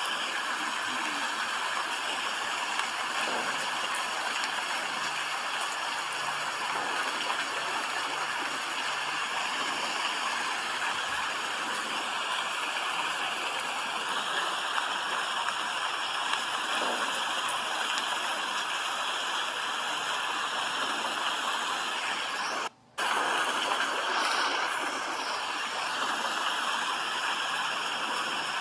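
Steady rain falling, an even hiss with no rhythm, broken once by a momentary drop-out about 23 seconds in.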